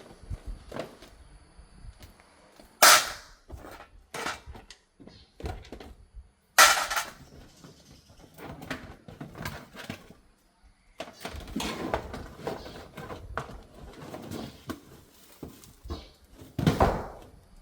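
Irregular clatter and knocks of tools and parts being handled while a vehicle is taken apart. Three loud, sharp knocks stand out: about three seconds in, six and a half seconds in and near the end.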